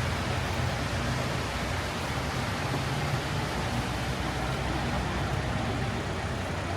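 Steady rain hiss on a city street with a low, steady rumble of traffic underneath.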